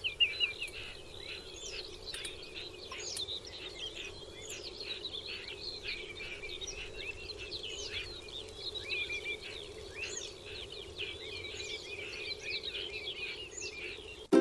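Many songbirds chirping and singing at once, a dense mix of short rising and falling calls and trills, over a steady low background noise.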